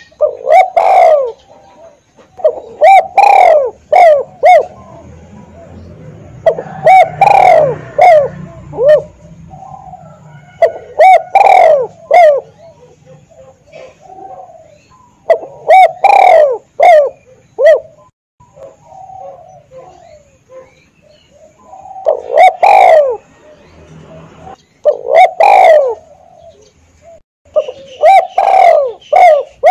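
Spotted dove (tekukur) cooing loudly and close up: short phrases of three or four low coos, repeated about every three to four seconds.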